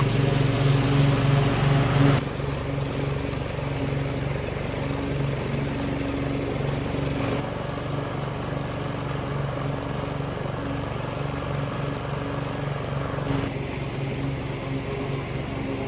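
Riding mower's replacement engine running on a test drive. It is loudest for the first two seconds, then runs on steadily.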